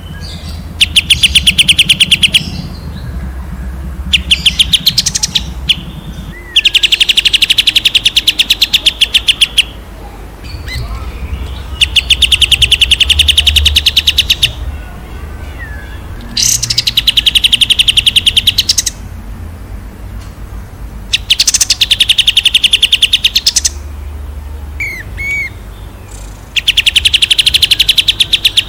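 A songbird singing loud, very rapid trilled bursts, the high rattling 'tembakan' of a masteran recording, seven times, each lasting one to three seconds, with short soft chirps in the pauses.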